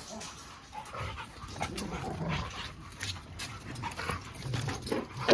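Rottweilers moving about the yard, giving soft dog sounds with no barking, among scattered light knocks; a brief louder sound comes just before the end.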